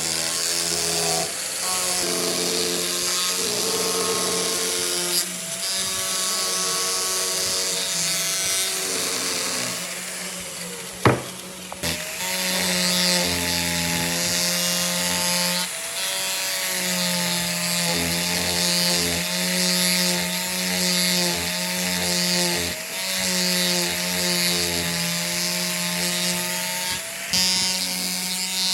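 Electric power tool working wood: a motor running steadily under a continuous hiss of cutting, its whine wavering in pitch with the load. There is one sharp knock about eleven seconds in.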